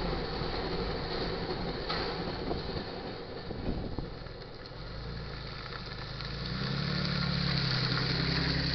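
Tank cars of a freight train rolling past, wheels clicking over the rails, with the rumble dropping away about four seconds in as the last car clears. A steady low engine hum from a road vehicle then comes in and grows louder near the end.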